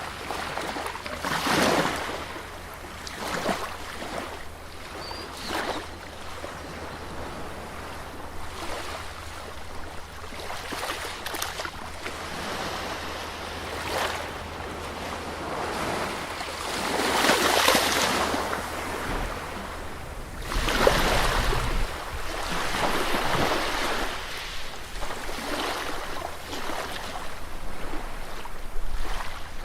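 Sea surf washing onto a beach, with waves surging and falling back every few seconds; the largest waves break about halfway through.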